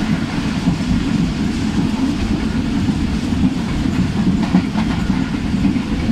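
Tezgam express passenger coach running along the track, heard from its open doorway: a steady rumble of wheels on rails, with a few clicks over rail joints about four and a half seconds in.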